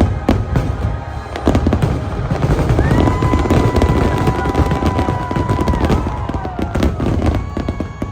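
Fireworks going off in rapid volleys of bangs over a deep rumble, with the show's music playing underneath; a long held musical note comes in about three seconds in and fades near six seconds.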